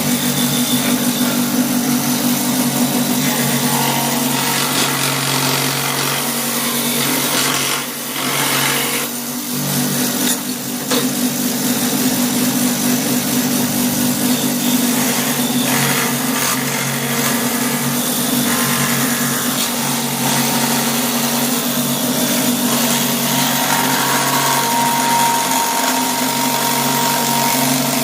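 Milwaukee M12 cordless die grinder running steadily as its bit grinds into black walnut wood while carving a spoon, with a steady motor whine under a grinding hiss. It eases off briefly twice about a third of the way in.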